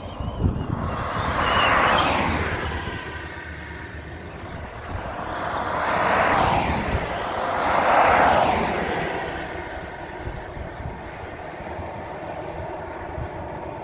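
Jet roar of a McDonnell Douglas MD-10-30F freighter's three turbofan engines at takeoff power. It swells loudly three times, then eases to a lower, steadier rumble near the end.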